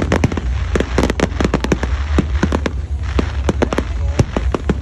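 Fireworks going off in a rapid, irregular barrage of sharp bangs and cracks, several a second, over a continuous low rumble.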